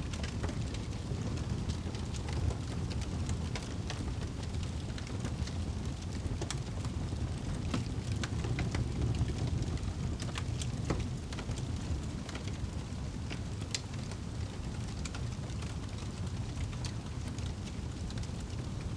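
Fire burning in a fireplace: a steady low rumble of flames with frequent small, sharp crackles and pops.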